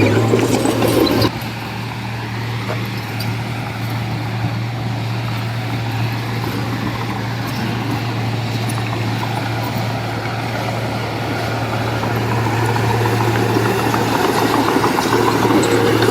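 Heavy diesel engine of construction machinery running steadily with an even low hum. The sound drops abruptly just over a second in, then slowly grows louder toward the end.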